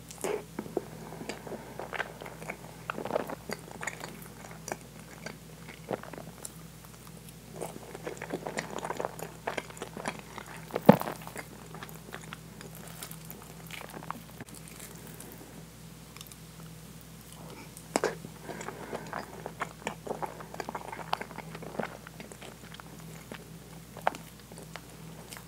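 Close-miked chewing of soft, custard-soaked French toast with whipped cream: moist mouth sounds in three bouts with pauses between, and one sharp click near the middle.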